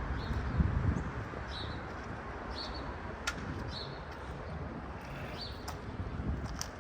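City street ambience: a steady hum of traffic, with a small bird chirping about once a second.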